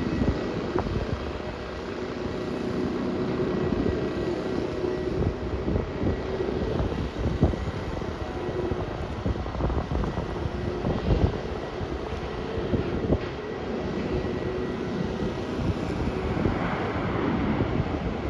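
Jet engines of a Boeing 737 as it lands and rolls out on the runway: a steady rumble with a faint steady whine.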